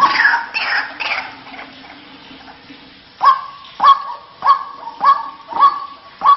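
White-breasted waterhen (ruak-ruak) calling: a burst of overlapping, falling calls fades out about a second and a half in. From about three seconds in, a regular run of sharp, short calls follows, a little under two a second.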